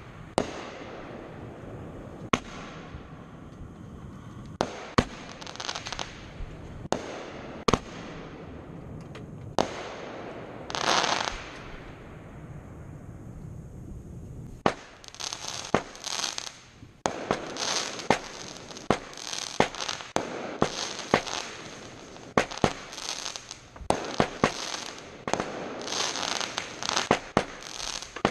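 Fireworks going off: sharp bangs of bursting shells, with stretches of hissing and crackle between them. The bangs come a few seconds apart at first, then thick and fast from about halfway through.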